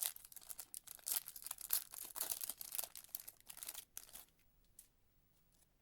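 A trading-card pack wrapper being torn open and crinkled, with sharp crackles, stopping about four seconds in.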